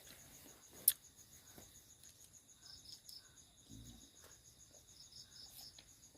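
Forest insects chirping steadily in a rapid, even, high-pitched pulse, faint. A single sharp click about a second in and a soft low thump near the fourth second.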